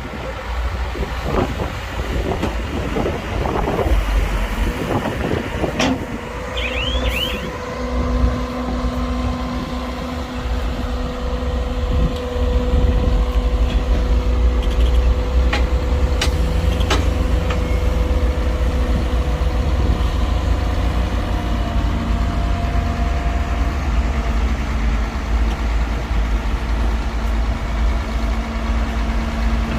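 Heavy diesel earthmoving machinery running: a loud, steady low engine rumble. About seven seconds in there are a few short high squeals, and after that a steady whine runs on over the rumble.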